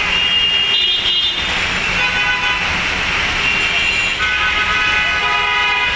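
Heavy rain falling with road traffic running under it. Vehicle horns sound several times, most from about four seconds in.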